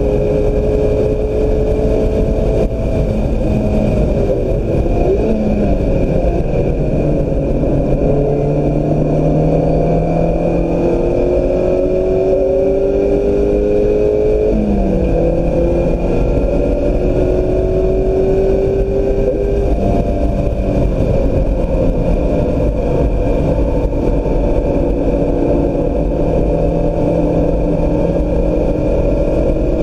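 2016 Mazda MX-5 Miata's four-cylinder engine pulling hard on track, its pitch climbing steadily through each gear and dropping back at the shifts and braking zones, with heavy road and wind rumble underneath.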